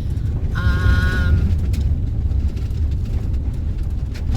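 Van driving, with steady engine and road rumble heard from inside the cab. A brief high-pitched squeal of about a second comes about half a second in.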